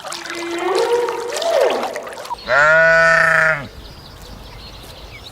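A livestock animal bleats once, loud and steady for about a second, about halfway through. It follows a quieter call that slides up and down in pitch.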